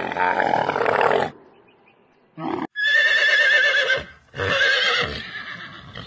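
A dromedary camel's noisy groan, cut off about a second in, then a horse whinnying twice, each long call with a quavering pitch.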